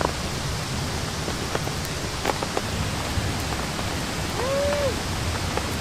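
Steady rain pattering on a one-pole tent's fabric, with scattered single drops ticking. About four and a half seconds in, a brief pitched note rises and falls.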